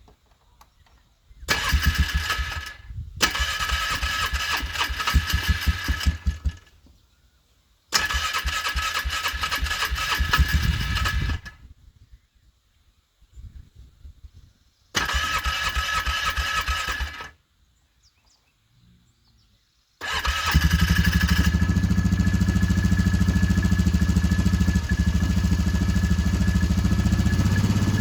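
Engine hard to start from cold. The starter cranks it in four long bursts with pauses between, then the engine catches about twenty seconds in and settles into a steady run.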